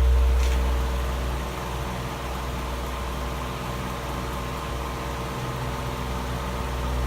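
Vintage Dayton 16-inch table fan running on high speed: a steady electric-motor hum under a rush of air. It gets somewhat quieter about a second and a half in, then holds steady.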